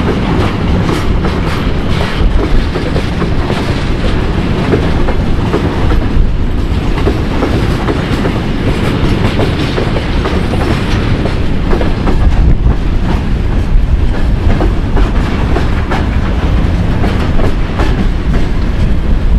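Freight wagons rolling past close by, a loud steady rumble with a continuous clickety-clack of wheels over the rail joints.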